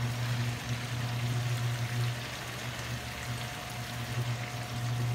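Chicken pieces sizzling as they fry in oil in a wok, with soy sauce dribbled into the pan from a bottle near the end, over a steady low hum.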